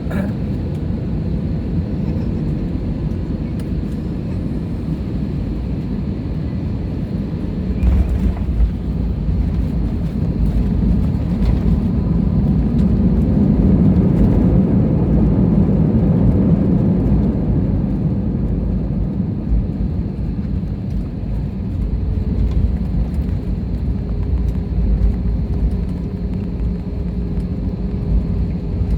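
Airliner cabin noise during landing: a steady low rumble that jumps up suddenly about eight seconds in as the wheels touch down. It grows to its loudest a few seconds later and then eases off as the aircraft rolls out on the runway.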